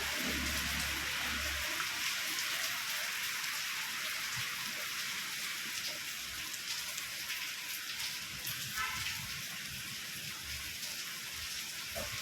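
Steady rain falling: an even hiss of drops that keeps up throughout.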